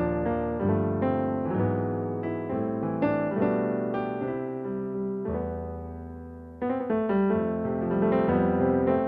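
KORG digital piano being played in a piano voice: chords and melody notes, each struck and then fading. A new, louder phrase comes in about two-thirds of the way through.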